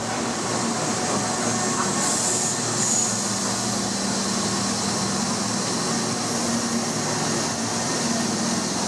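Tobu 8000 series electric train running into the station platform, a steady rumble of motors and wheels with a low hum, and a brief high squeal about two seconds in.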